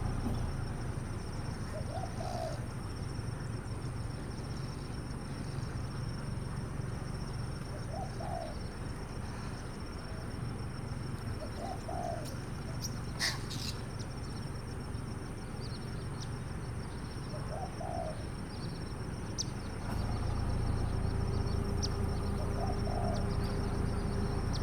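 A bird calling: short, low calls repeat about every four to six seconds over steady background noise.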